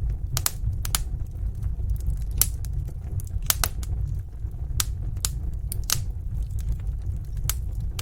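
Wood fire crackling in a fireplace: irregular sharp pops and snaps, about a dozen, over a steady low rumble.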